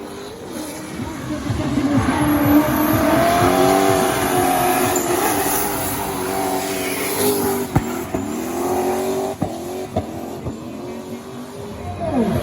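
A BMW E30's turbocharged V8 revving hard, its pitch swinging up and down as the car drifts, with tyres squealing. It grows louder about two seconds in, and a few sharp cracks come near the end of the run.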